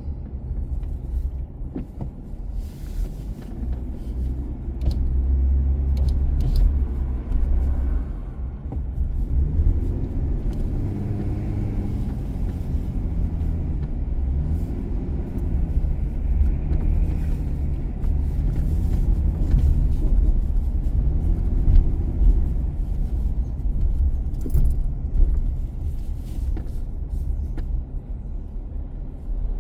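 Car being driven: a steady low rumble of engine and road noise, with the engine note slowly rising and falling, and scattered light clicks and rattles.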